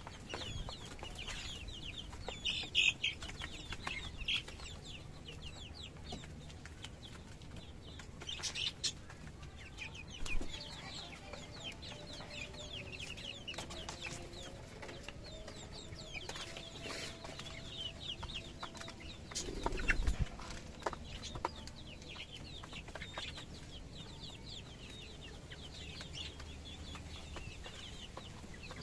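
Domestic chickens clucking, with many short high-pitched calls throughout. A dull knock is heard about twenty seconds in.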